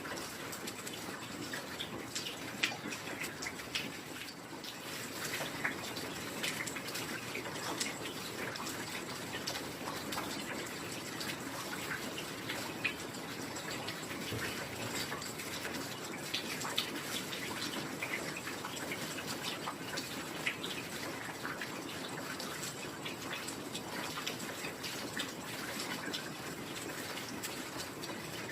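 Heavy rain falling steadily: a constant hiss with many separate drops hitting.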